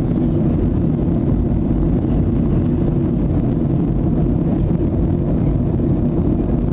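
Steady low rumble of a Boeing 737's jet engines and airflow as heard inside the cabin in flight, even and unchanging.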